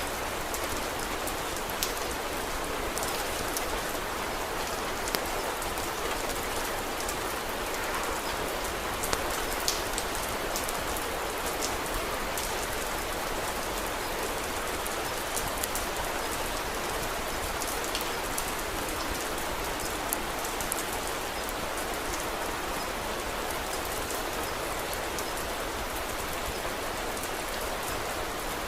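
Steady rain falling: a dense, even hiss with scattered sharp ticks and pops through it.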